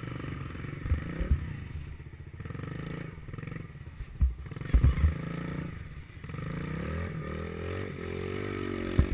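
Small pit bike engine running, its pitch rising and falling with the throttle, with a few dull thumps at about four seconds, around five seconds and near the end.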